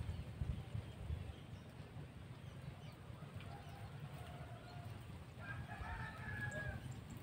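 A rooster crowing faintly, with one drawn-out crow starting about five and a half seconds in and a weaker call a couple of seconds before it, over a steady low rumble.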